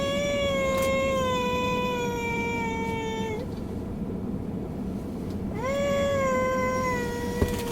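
A young child singing two long held notes, each starting with a quick upward slide and then sinking slowly. A short sharp knock near the end.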